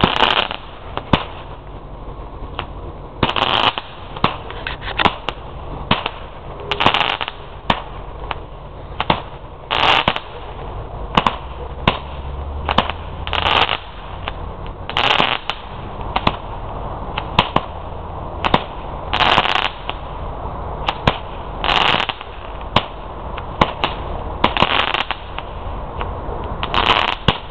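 A 36-shot firework cake firing its shots in a long steady run: sharp launch pops with a bigger bang every couple of seconds as the shells burst.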